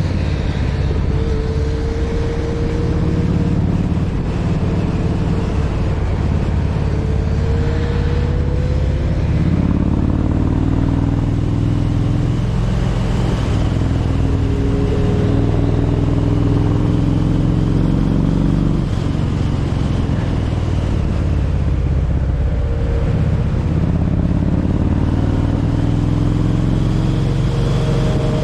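A Kawasaki Vulcan 1700 Voyager's V-twin engine running under way, with a steady low rumble and an engine note that rises slowly several times as the bike speeds up.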